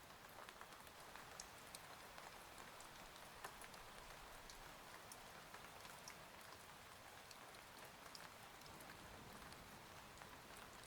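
Faint, steady rain, with scattered drops ticking sharply.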